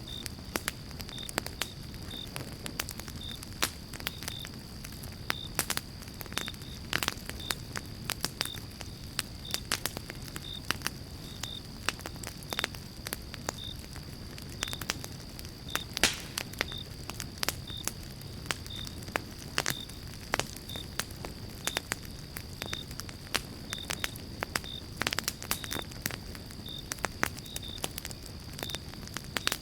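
Pine-log campfire crackling and popping: a steady low rush of flame with frequent irregular sharp snaps, two of them louder pops about halfway through and near the end.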